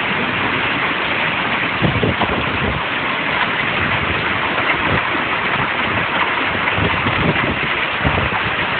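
Heavy rain and strong wind in a severe storm, a steady loud rushing, with low gusts buffeting the microphone several times.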